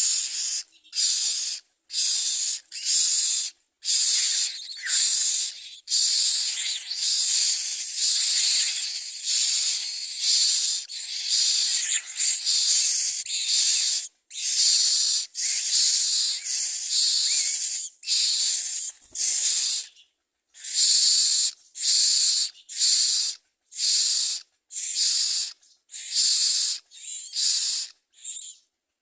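Common myna nestlings begging with harsh, hissing calls in repeated bursts of about a second each. For a stretch in the middle the bursts run together almost without a break.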